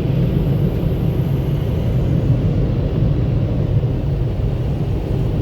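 Automatic car wash dryer blowers running, a steady noise of blown air heard from inside the car.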